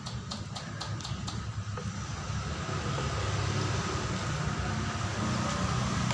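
Steady low vehicle rumble, with a quick run of light clicks at about five a second during the first second or so.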